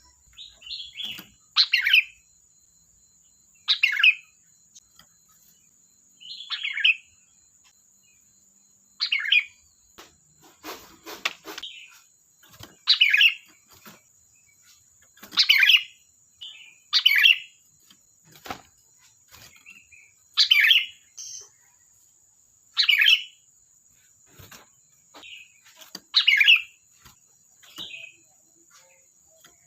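Sooty-headed bulbul (kutilang) singing: short, bright whistled phrases, one every two seconds or so.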